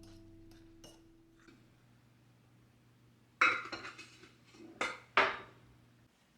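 Kitchenware clinking and clattering in a handful of sharp knocks over about two seconds past the middle, the loudest at the start and the end of the run. The tail of soft piano music dies away in the first second or so.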